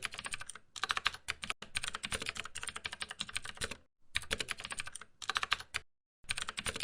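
Rapid computer keyboard typing, a dense run of key clicks in three spells with short pauses about four and six seconds in.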